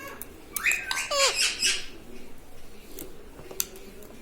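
Ring-necked parrot calling: a quick run of short squawky calls with gliding pitch in the first two seconds, then a couple of short clicks.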